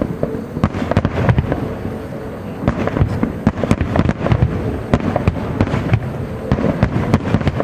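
Aerial firework shells bursting in a dense, irregular rapid run of sharp bangs, several a second, over a low rumble.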